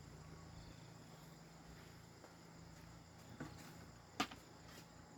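Faint, steady chirring of crickets, with a few soft clicks and one sharper click a little after four seconds in.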